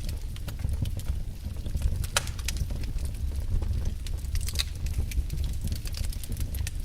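Wood fire burning in a fireplace: a steady low rumble with irregular sharp crackles and pops, one of the sharpest about two seconds in.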